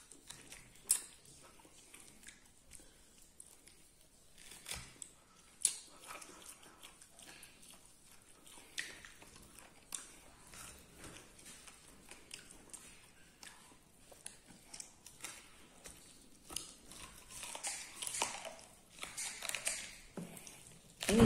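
A man chewing and biting into cooked beef, with scattered short smacks and clicks of eating. The sounds grow busier and louder near the end.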